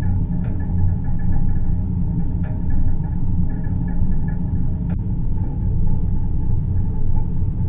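Deep-space ambience soundscape: a steady low rumbling drone with faint higher tones hovering above it and a few faint ticks.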